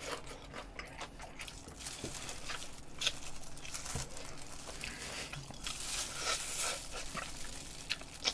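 Close-up chewing and biting of fried chicken: irregular crisp crunches and wet mouth sounds.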